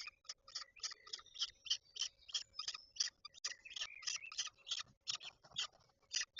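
Peregrine falcon calling: a rapid, even run of short, sharp calls, about four a second.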